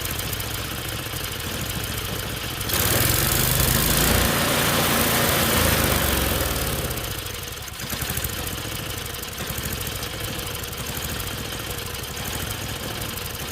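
Tecumseh single-cylinder snowblower engine running, then surging up suddenly about three seconds in, holding high for several seconds and easing back down to its earlier speed. The surging is the sign of a poorly metering carburettor that the owner is replacing.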